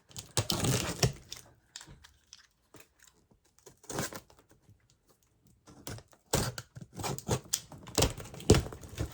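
A cardboard shipping box being opened: tape tearing and packing material crinkling in short bursts, a burst in the first second, then a busier run of tearing and handling noises in the last three seconds.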